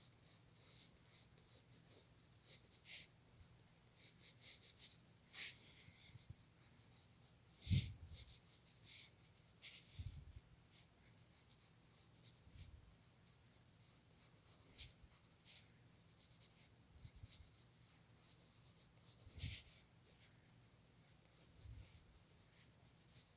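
Faint scratching of a drawing tool on sketchbook paper in short, irregular strokes, with a few soft low thumps, the loudest about eight seconds in.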